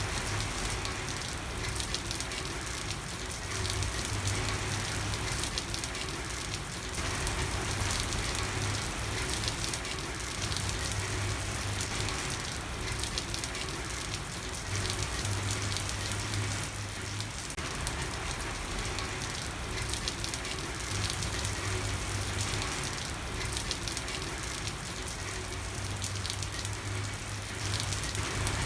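Steady rain falling: an even hiss with many fine ticks of individual drops, holding a constant level.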